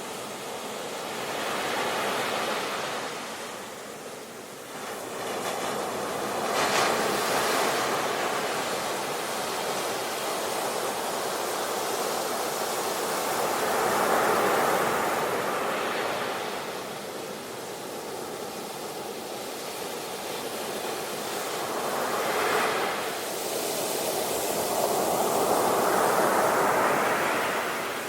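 Sea waves breaking and washing on the shore, the surf hiss swelling and fading with each wave, about five waves in turn.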